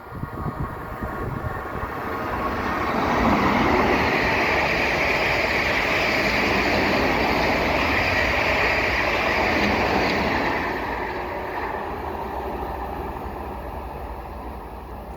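A train passes through the station. Its rushing wheel and rail noise swells up, holds loud for several seconds, then fades away.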